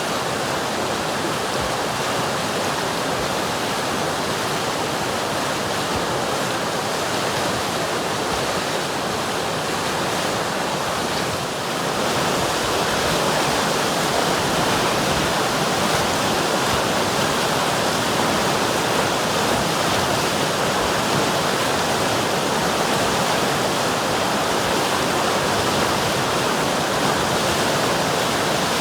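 River water flowing steadily, a continuous dense rush of water noise. It gets slightly louder about twelve seconds in.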